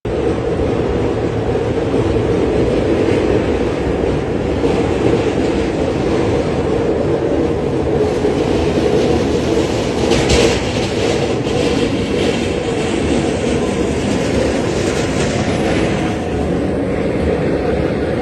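A loud, steady mechanical rumble, with a few sharp clacks about ten to twelve seconds in.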